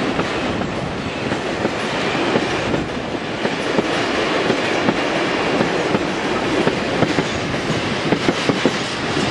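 Freight train of car-carrier wagons running through at speed: a steady rumble of wheels on the rails with a quick clatter of wheel clicks.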